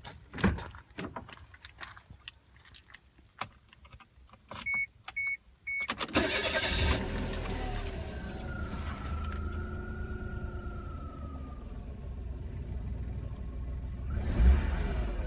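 Key clicks and three short electronic beeps, then a Suzuki Wagon R RR's turbocharged K6A three-cylinder engine is cranked and catches about six seconds in, settling into a steady idle with a faint whine. Near the end it is revved.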